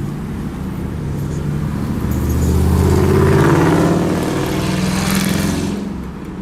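Car driving, its engine and road noise swelling to a peak a few seconds in, then fading toward the end.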